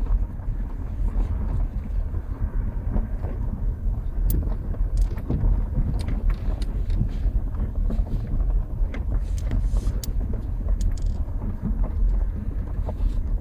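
Car driving slowly along a rough track: a steady low rumble from the car, with frequent irregular knocks and crunches from the wheels and body over the uneven ground, and some wind buffeting through the open back windows.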